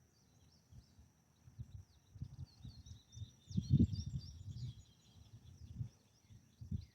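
Small birds chirping over a faint steady high insect whine, with irregular low rumbles and bumps that are loudest a little over three and a half seconds in.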